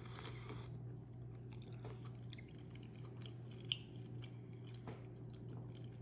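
Close-mic chewing of malatang, with soft wet clicks and small crunches, after a brief noisy slurp or rustle at the start. A steady low hum runs underneath.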